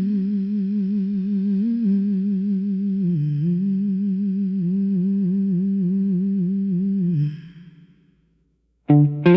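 A person humming a slow tune, each held note wavering in a vibrato, dipping lower about three seconds in and fading out after about seven seconds. After a short silence, a guitar starts plucking notes near the end.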